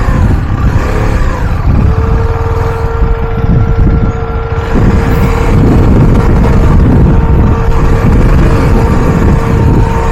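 Motorcycle riding at a steady speed: heavy wind buffeting on the microphone over the engine, whose note holds one steady pitch from about two seconds in.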